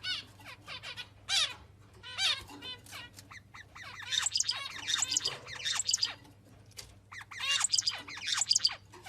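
A bird chirping and squawking in quick runs of short calls, densest in two bursts of about two seconds each, one in the middle and one near the end, with a faint steady hum behind.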